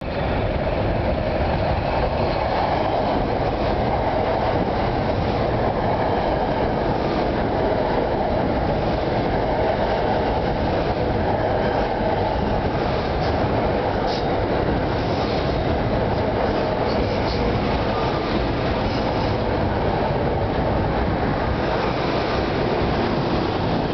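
Metro-North electric multiple-unit train of M2, M4 and M6 cars pulling into the station and slowing to a stop, a steady loud running noise of wheels on rails.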